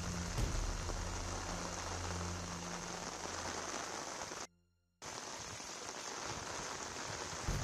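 Steady rain hissing on a wet road, with a low hum under it for the first three seconds. The sound cuts out for about half a second midway, then the rain resumes.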